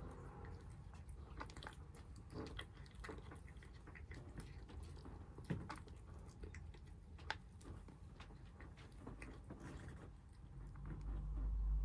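Stray kittens eating, with many short crisp crunches and bites as they chew their food. A low rumble swells near the end.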